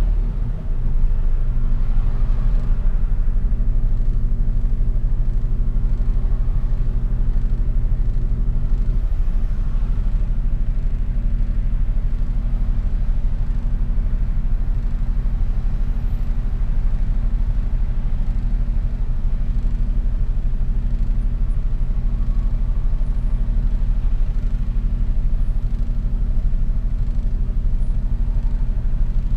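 Mercedes-Benz Actros truck's diesel engine running at a steady low drone while driving, heard from inside the cab.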